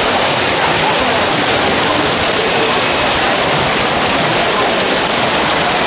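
Torrential rain with runoff pouring off a roof edge in streams and splashing into flooded ground: a loud, steady rush of water.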